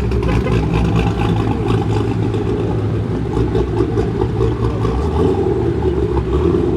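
Car engines running with a steady, loud low drone, in the manner of Mopar V8 muscle cars at idle and light revs.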